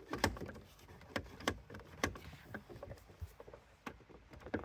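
Irregular sharp clicks and light knocks of car interior trim parts being handled and pushed into place, a handful of them spread unevenly through a few seconds.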